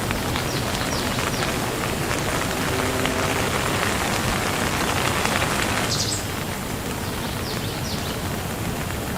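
Steady rain falling, heavier for a few seconds in the middle and easing off about six seconds in, with a few short high chirps near the start and near the end.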